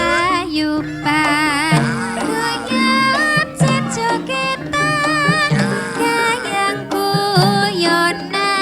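Javanese gamelan ensemble playing, with steady pitched metallophone and gong notes underneath and a high melody line that wavers in pitch above them.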